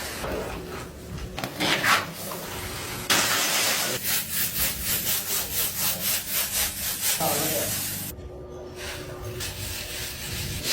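Rapid, rhythmic scraping strokes, about four a second, loudest from about three seconds in until nearly eight seconds.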